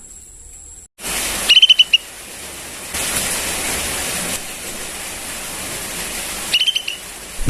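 Young sooty-headed bulbul calling: two short bursts of rapid high chattering notes, about a second and a half in and again near the end, over a steady hiss.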